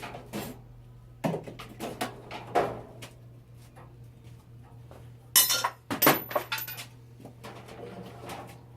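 Metal clinking and clattering: a run of sharp knocks, with the loudest clatter about five and a half to six seconds in, over a faint steady hum.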